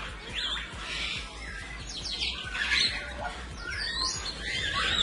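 Parrots calling: several overlapping calls in quick succession, many sliding up and down in pitch.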